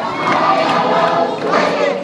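A crowd of many voices cheering and shouting together, mixed with group singing.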